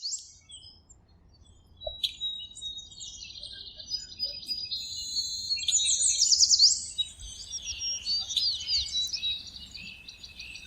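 Songbirds chirping and trilling in quick, high notes, with rapid runs of sweeping notes about six and nine seconds in.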